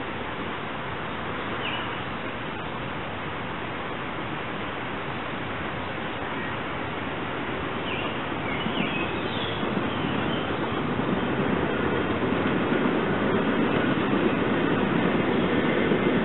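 SEPTA Silverliner V electric commuter train approaching on the bridge, its rolling noise building from about halfway through over a steady background hiss. A few short bird chirps come through near the start and around the middle.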